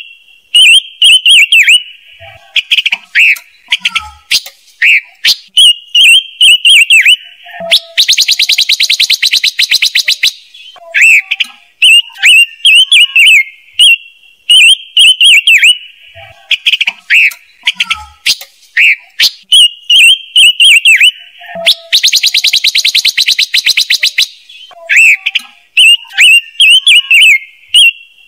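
Loud lure recording of the songbird known in Vietnam as chim ngũ sắc, an excited call meant to draw wild birds to a trap: phrases of quick clear whistled notes, broken twice by a dense rapid chattering rattle about two seconds long. The sequence repeats about every fourteen seconds, like a loop.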